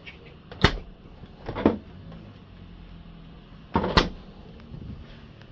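Three separate knocks inside the RV: one about half a second in, another about a second later, and a louder one about four seconds in, over a faint steady low hum.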